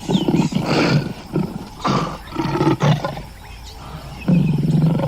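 An animal calling in a run of rough, low-pitched calls with short pauses between them, the last one starting about four seconds in.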